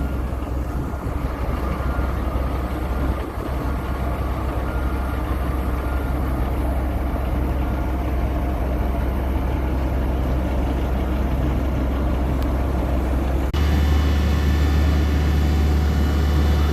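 Heavy diesel road-paving machinery running steadily, a low engine rumble. About 13 s in it suddenly gets louder and a steady high whine joins it.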